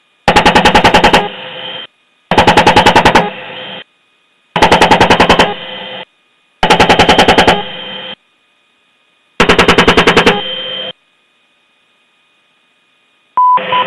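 Apache helicopter's 30 mm M230 chain gun firing five short bursts of about ten rounds each, a second or two apart. Each burst ends in a brief trailing rumble. A short radio tone sounds near the end.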